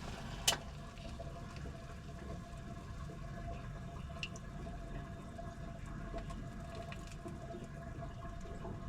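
Washing machine running mid-cycle, with water moving in the drum under a faint steady hum and scattered small ticks; one sharp click about half a second in.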